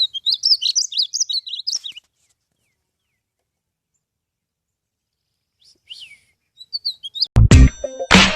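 A bird chirping in a quick run of high notes for about two seconds, then a few more chirps after a silent gap. Loud music with a heavy beat starts near the end.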